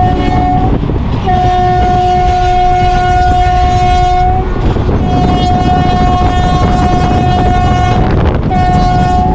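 Train horn sounding in repeated long blasts, two of them about three seconds each, over the steady rumble of the moving train.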